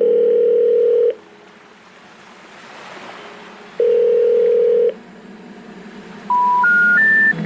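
Telephone ringback tone: two steady beeps of about a second each, a few seconds apart, with faint hiss between. Near the end come three short beeps rising step by step, the special information tone that signals a call cannot be completed.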